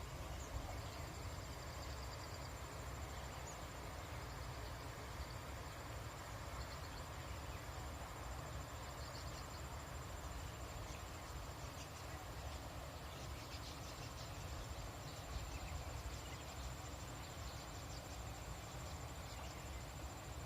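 A steady, high-pitched insect drone in a rural field, with faint short chirps now and then, mostly in the second half, over a constant low rumble.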